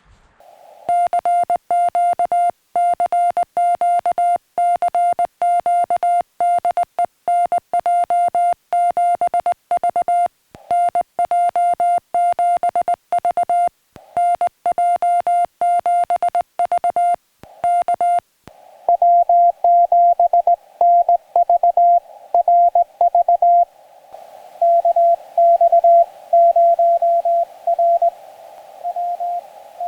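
Morse code (CW) tone at about 700 Hz from a portable QRP ham transceiver, keyed in dots and dashes. For the first eighteen seconds or so it is clean keying with silent gaps. After that the code goes on over a steady hiss of receiver band noise, as the other station's signal comes in.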